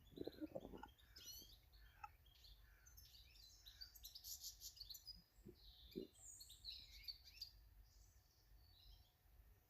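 Faint garden birds chirping, short calls scattered throughout, over a steady low rumble. A few soft knocks come near the start and two more about halfway through.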